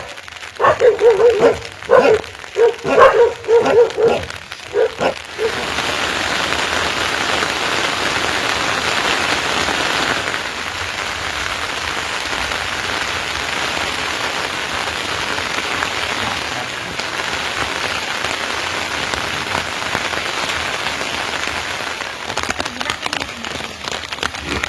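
Steady rain falling, an even hiss that takes over about five seconds in. Before that, a dog barks several times in short bursts.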